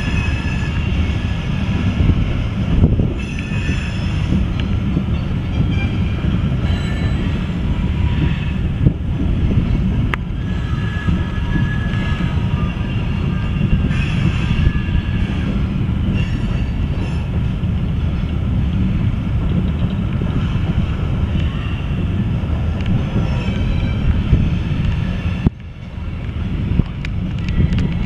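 Loaded coal hopper cars of a CSX freight train rolling past with a steady low rumble. High wheel squeals come and go as the cars take the curve.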